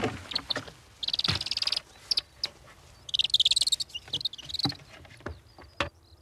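A large bird giving two bursts of harsh, rapid squawks, with scattered knocks and wing flaps in between as it is handled at a box.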